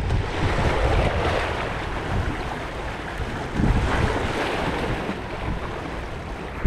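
Waves washing against the rocky shore, with wind buffeting the microphone as a low rumble.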